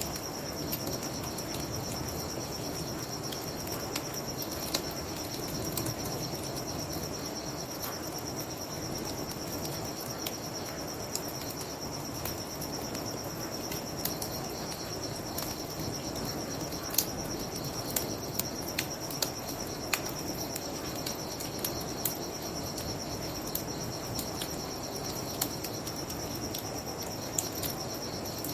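Crickets chirping steadily while a wood fire crackles, with sharp pops at irregular intervals, over a low steady rush.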